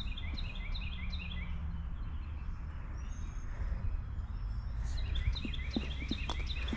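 Steady low outdoor background rumble, with a bird chirping in quick repeated runs near the start and again near the end, and a few light clicks toward the end.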